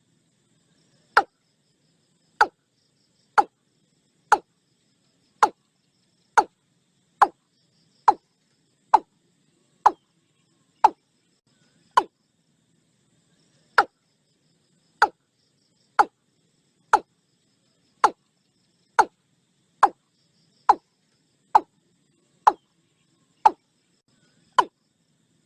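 Watercock calling: a long series of short, sharp kok-like notes about one a second, each dropping quickly in pitch, with a brief pause about halfway through.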